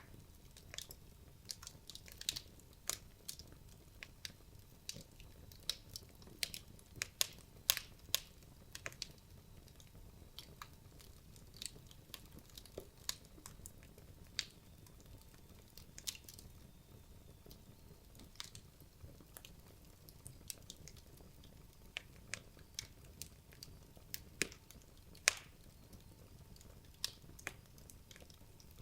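Wood logs burning in a fireplace, crackling with irregular sharp pops and snaps over a faint low hiss of the flames.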